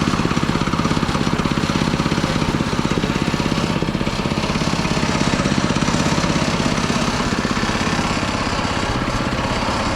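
Gasoline engine of a Mechmaxx SM-22 band sawmill running steadily, with a fast even pulsing.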